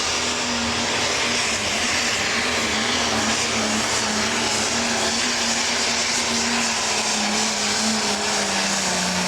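A 10,000 lb pro stock pulling tractor's turbocharged diesel engine running hard under load down the track. It is a loud, steady drone with a wavering whine that sinks lower near the end as the tractor bogs down and slows.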